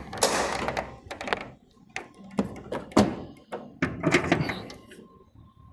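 A series of knocks and thunks from objects being handled, with a brief stretch of a man's voice.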